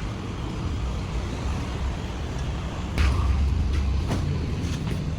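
Steady low rumble of a running vehicle engine, with a sudden louder knock about three seconds in and a few fainter clicks after.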